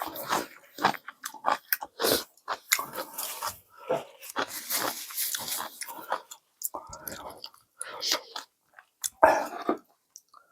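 A person eating ramen close to the microphone: irregular chewing and mouth noises that stop shortly before the end.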